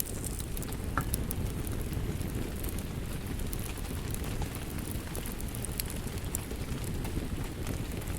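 Wood fire crackling in a fireplace: a steady low rush of flames with many small scattered pops and snaps, one sharper pop about a second in.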